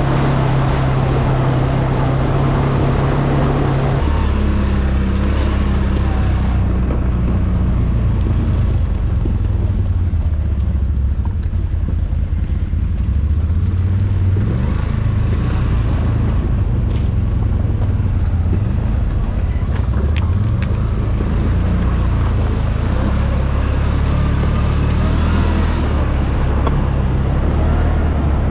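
ATV engine running while being ridden, its pitch dropping a few seconds in and then rising and falling with throttle changes. A rushing hiss is louder near the start and again near the end.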